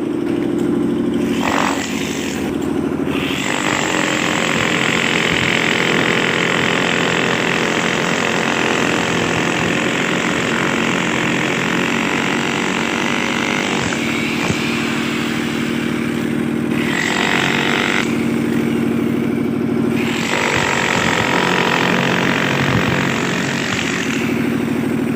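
A motor running steadily with a low hum, overlaid by a harsher noise that cuts out and comes back several times.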